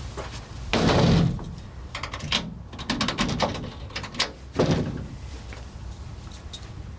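A door being handled and shut: a heavy thud about a second in, a series of clicks and knocks, then another thud.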